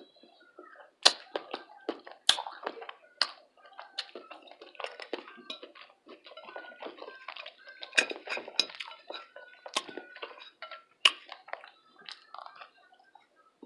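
Close-miked eating sounds: chewing with irregular sharp crunches, clicks and wet mouth noises.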